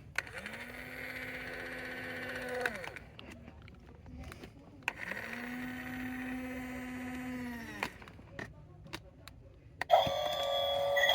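A Dickie Toys recycling truck's battery-powered mechanism whirring twice, each run about two and a half to three seconds, its pitch rising as it starts and sinking as it stops. About ten seconds in, a louder electronic sound effect starts from the toy's speaker.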